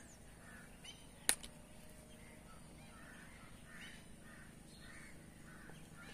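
Faint bird calls: a run of short, repeated calls over the back half. A single sharp click sounds about a second in.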